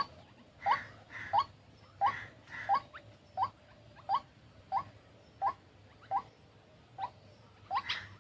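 White-breasted waterhen calling: one short rising note repeated steadily, about every 0.7 seconds, with a few harsher notes in between.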